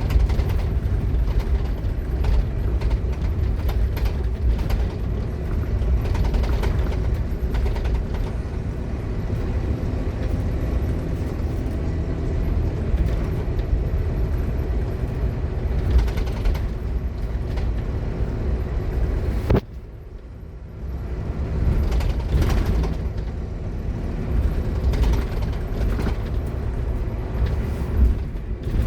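Scania K230UB Omnilink bus under way: the engine and its ZF Ecomat automatic gearbox are running, with rattles and creaks from the bodywork. About 20 seconds in, the sound drops sharply for a couple of seconds, then builds up again.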